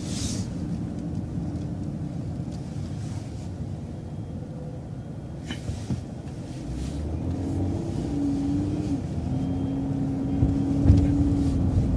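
City transit bus running with a low rumble; about seven seconds in it grows louder, with a steady whine coming in over the rumble.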